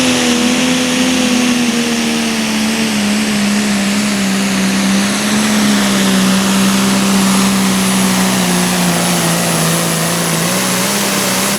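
Turbocharged diesel pulling tractor running flat out under load on a pull, with a thin high turbo whine over it. The engine note holds steady and drifts slowly lower through the run.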